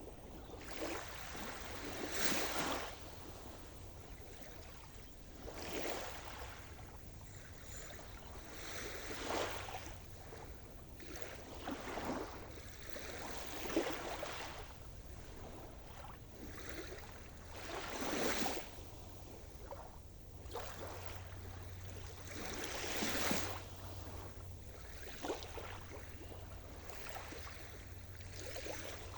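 Sea surf: small waves breaking and washing in, a surge of hiss every few seconds, over a steady low rumble.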